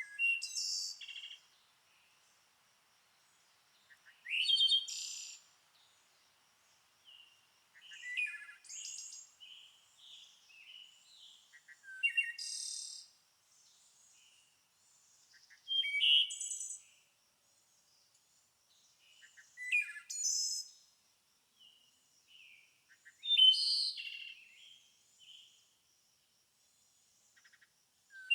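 A songbird singing short, varied high-pitched phrases, about one every four seconds, with pauses in between.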